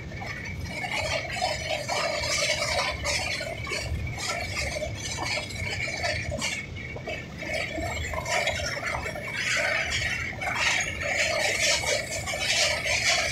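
Passenger train running across a steel truss railway bridge, heard from the coach: continuous rattling and clatter with a steady high whine.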